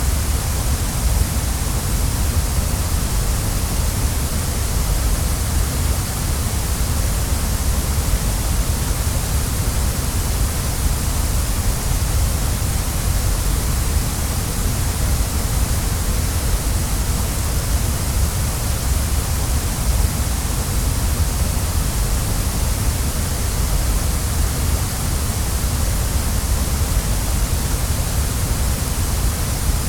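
Waterfall: a steady, unbroken rush of falling water, with a deep rumble underneath and a bright hiss on top.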